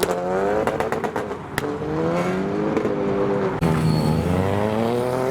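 Modified car engines revving hard as they pull away, the pitch climbing and dropping back three or four times like gear changes, with a rattle of sharp exhaust crackles in the first second or so.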